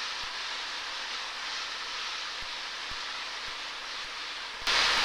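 Steady hiss of cabin noise in a Cessna 172RG in flight, with a few faint ticks. Near the end the hiss jumps suddenly louder as a radio transmission opens.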